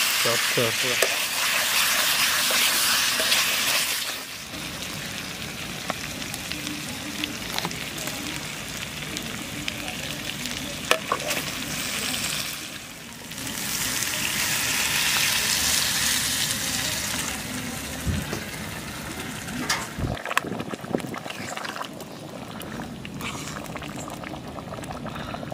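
Chicken pieces sizzling as they fry in spiced masala in an iron kadai, with a spatula stirring and scraping through them. The sizzle is loud for the first few seconds, dies down, and swells again midway. Near the end it drops to a quieter bubbling as the chicken simmers in its curry gravy.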